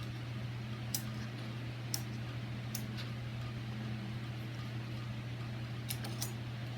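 Steady low mechanical hum in a small room, with a few light, sharp clicks as deadbolt parts and the lock's wire are handled against the door.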